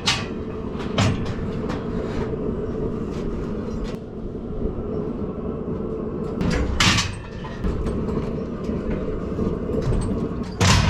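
Metal clanks and rattles from cattle-handling gates and equipment over a steady hum, with a few sharp knocks, the loudest about two-thirds of the way through and again at the end.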